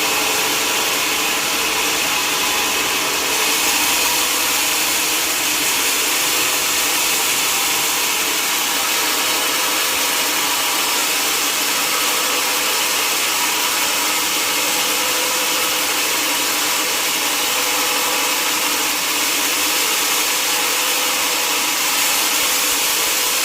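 Sawmill saw running steadily through a mahogany log, a constant high hiss over an even machine hum.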